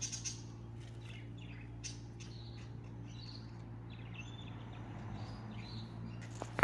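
Small songbirds chirping and twittering in short, scattered calls over a steady low hum. A sharp click comes at the very end.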